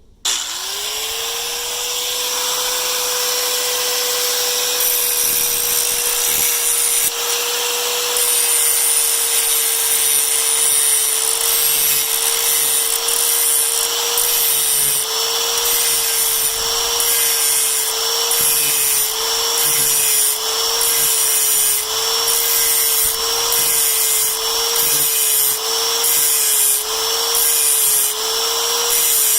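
A power-tool motor switches on, spins up in a fraction of a second and runs at a steady pitch. The tip of a steel threaded rod is ground against it, with a rhythmic scraping about once a second, to sharpen the rod to a point.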